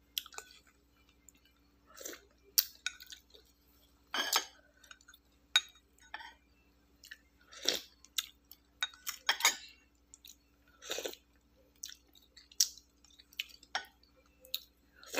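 A person chewing food close to the microphone, with irregular short crunches and clicks.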